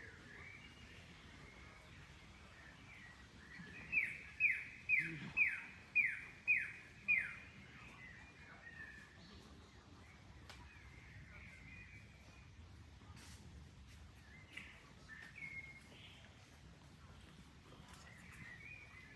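A bird sings a run of seven loud, quickly falling whistled notes, about two a second, starting about four seconds in. Other birds call and chirp faintly around it over a faint steady background noise.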